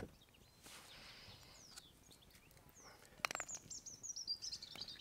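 A small songbird singing: a few faint high chirps, then a quick run of high, falling chirps from about three seconds in. Just before the run there is a sharp click.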